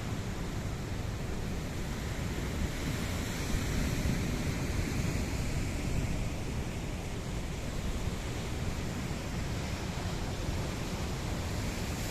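Sea waves washing and breaking on a beach, a continuous rushing that swells a few seconds in, with wind rumbling on the microphone.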